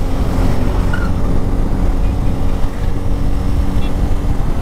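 Bajaj Pulsar N250's single-cylinder engine running steadily at speed in third gear while the bike is ridden, with a heavy low rumble.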